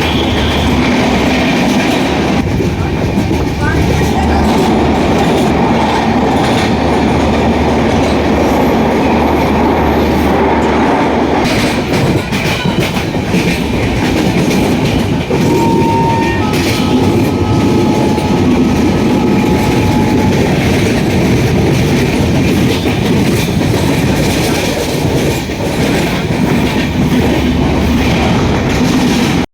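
Train running on the rails, heard from on board: a steady loud rumble with the clickety-clack of wheels over rail joints, and faint thin squeals about halfway through.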